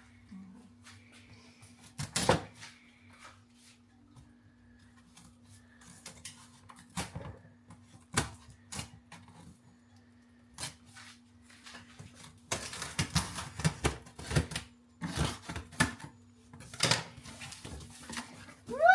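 Cardboard box and packaging being opened and handled: scattered clicks, knocks and scrapes of cardboard, with a busier run of rustling and knocking about two thirds of the way through.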